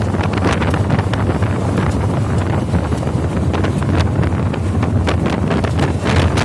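A car engine running with a steady low hum, heard under heavy wind buffeting on the microphone that crackles throughout.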